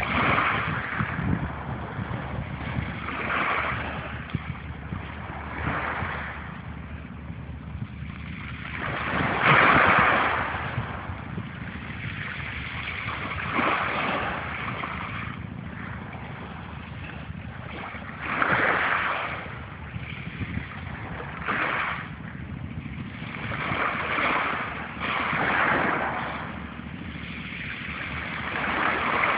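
Sea waves washing in, a noisy surge swelling and fading every three to four seconds, over a steady low rumble.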